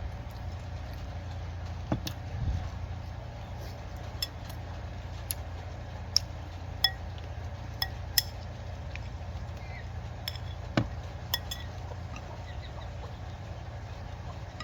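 Utensils clinking against dishes during eating: about ten sharp, irregularly spaced clinks over a steady low hum.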